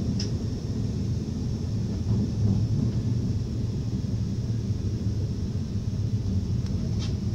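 Steady low rumble of an NS ICMm (Koploper) electric multiple unit running on the rails, heard from inside the carriage at the door, with a faint high hiss and a couple of light ticks.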